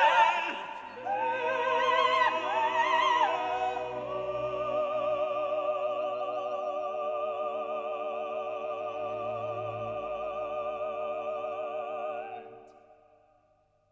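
Operatic singing with a strong vibrato over a steady accompaniment, ending on one long held note that fades out about twelve seconds in.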